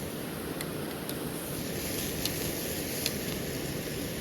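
Steady rushing of a waterfall, with a few faint sharp pops from the cooking fire.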